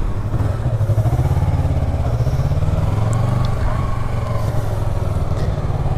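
Yamaha YZF-R3's 321 cc parallel-twin engine running under way at a steady cruise, its note rising a little and then easing back.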